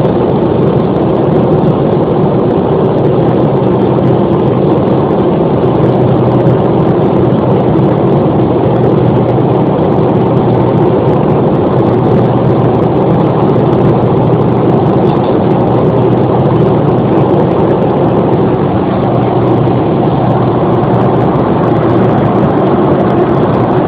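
Steady drone of an airliner's cabin in flight: engine hum and rushing air, unchanging throughout.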